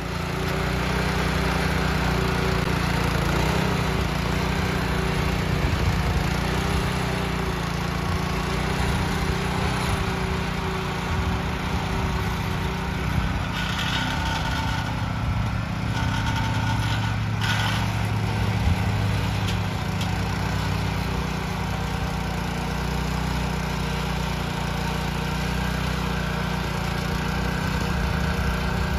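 Small gasoline engine of a homemade gas-powered chicken tractor running steadily as it drives.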